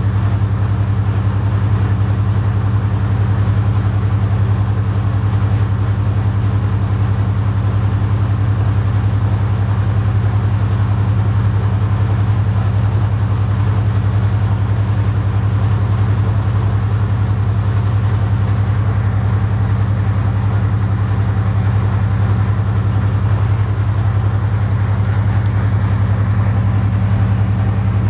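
Class 55 Deltic diesel locomotive's Napier Deltic 18-cylinder two-stroke engine (its number one engine) idling steadily after start-up, a loud, even low drone.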